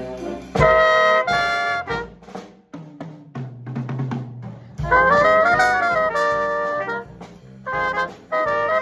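Jazz big band playing a swing chart: loud brass and saxophone ensemble chords over drum kit. A quieter stretch with the bass line comes in between, and short punchy stabs come near the end.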